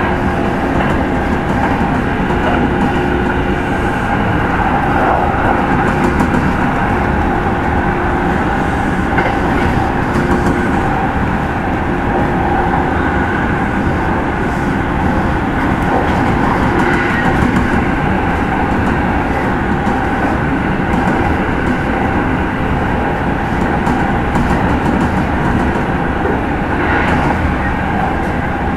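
Kintetsu 30000 series limited-express motor car running at steady speed, heard from inside the car. A continuous rumble of wheels on rail and drive gear, with a few faint steady tones and occasional light clicks over the track.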